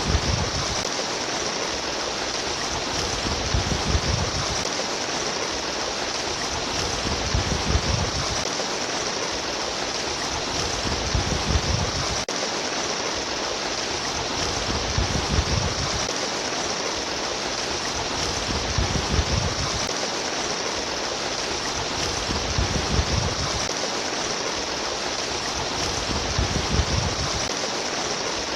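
Flowing water of a stream, a steady rushing babble with low surges that come back evenly about every four seconds.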